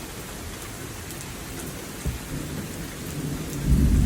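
Rain falling steadily during a thunderstorm, with a low rumble of thunder swelling near the end.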